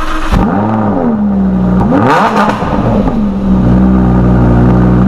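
Lamborghini Huracán V10 on its stock exhaust, firing up with a flare in revs that settles back. It is blipped once about two seconds in, then idles steadily.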